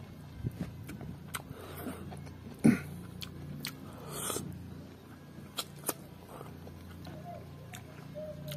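A person chewing a mouthful of pork curry and rice, with wet mouth clicks and lip smacks and one sharp, loud smack about two and a half seconds in, over a steady low hum.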